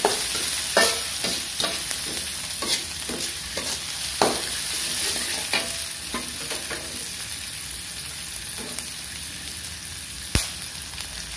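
Oil sizzling in a wok as sliced shallots, garlic and red chilies sauté, with a metal spatula scraping and knocking against the wok in the first half. There is one sharp metallic clack near the end.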